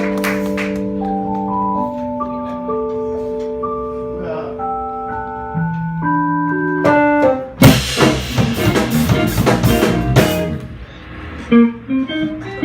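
Live jazz combo of guitar, piano, bass and drums playing: long held chords, then a quick rising run of notes, then a loud burst of drums and cymbals about eight seconds in, dying down near the end.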